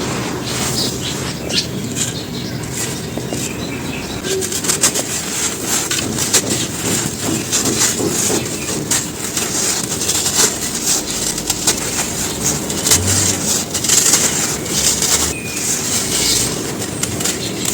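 Dry charcoal and ash being crumbled, a dense run of crackling and crunching.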